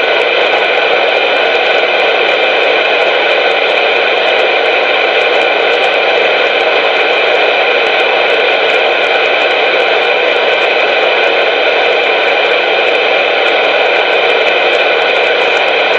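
CB radio receiver hissing with loud, steady static, with faint steady tones inside the hiss; it cuts off abruptly at the end as a voice comes on.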